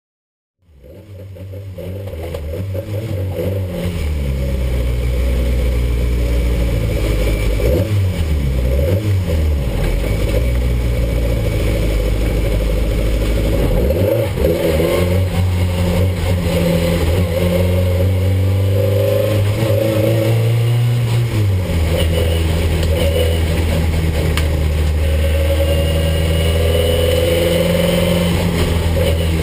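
Race-prepared Ford Anglia special saloon's engine, heard from inside the cabin at racing speed. It fades in about a second in, then revs up and down through corners with sharp drops in pitch at gear changes.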